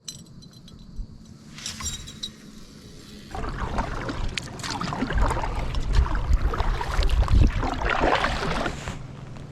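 Kayak being paddled: paddle strokes swishing and splashing in the water, starting about three seconds in after a quieter stretch with a few small clicks, with a heavy low rumble in the middle.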